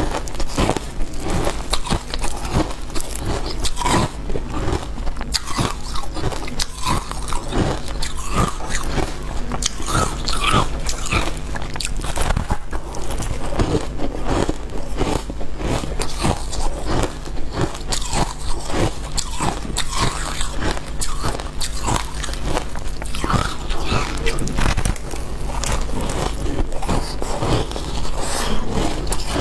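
Close-up biting and chewing of freezer frost and ice: dense, irregular crunches, one after another, over a steady low hum.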